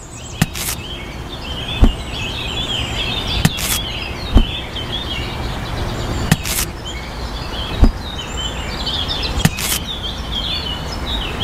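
Birds chirping over a steady outdoor background hum, with a series of sharp impacts every second or two, deep thuds alternating with higher cracks, like repeated smashing blows.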